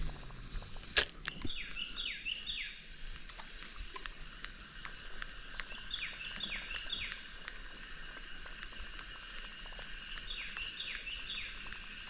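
A songbird repeating a phrase of three or four quick down-slurred whistles, three times about four seconds apart. There is a sharp click about a second in, and light ticking throughout.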